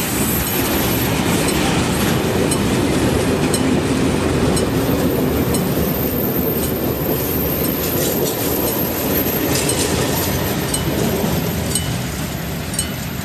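Freight train wagons rolling past: a steady rumble of wheels on rail with clicks over the rail joints. It eases off near the end as the last wagon clears the crossing.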